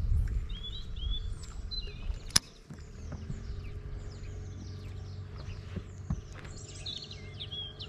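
Small birds chirping and singing over a low rumble that gives way to a steady low hum, with one sharp click about two and a half seconds in.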